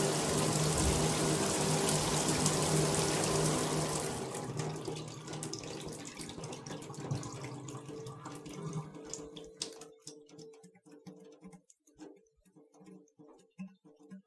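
Shower water running hard, then shut off about four seconds in. It tapers away into scattered drips that grow sparser toward the end.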